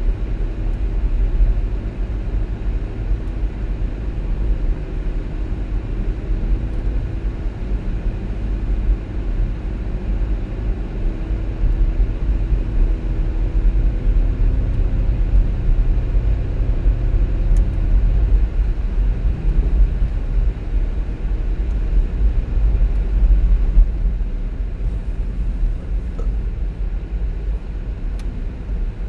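A car being driven: a steady low road rumble, with a faint drone that wavers slightly in pitch through the first half.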